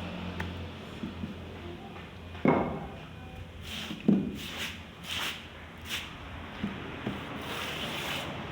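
Handwork on bamboo pieces: two sharp knocks, then a run of short scraping strokes, the last one longer, over a low steady hum.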